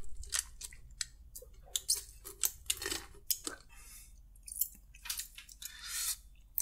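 Close-miked chewing of crispy fried food: a run of irregular, sharp crunches, several a second, with soft wet mouth sounds between them.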